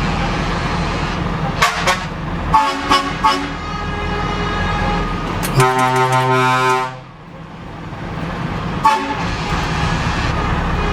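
Truck horns sounding: a few short toots, then one longer held blast about halfway through and another short toot near the end, over the steady drone of a running truck engine.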